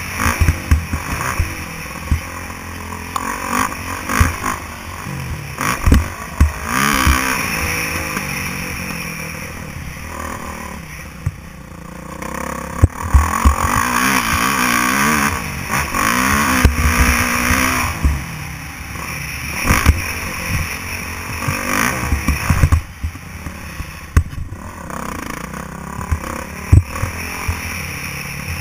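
Motocross bike engine revving hard and easing off again and again, its pitch rising and falling, with rushing noise and frequent thumps and clatter.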